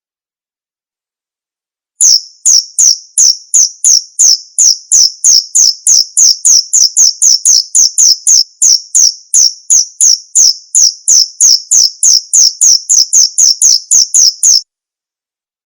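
Male cricket chirping: an even series of short, high chirps, about three a second, starting about two seconds in and cutting off suddenly near the end.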